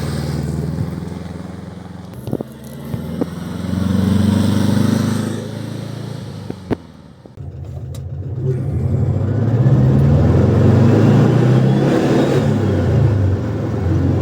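Air-cooled flat-four engine of a 1995 VW Beetle 1600i running under way. The engine note swells about four seconds in, fades to a low point around halfway, then climbs again and holds. A few sharp clicks fall in the first half.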